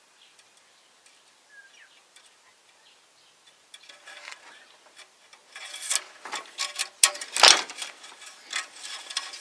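Hand tools working on metal in a truck's engine bay: a string of light metallic clicks, taps and rattles that starts a few seconds in and grows busier, with one heavier knock near the end.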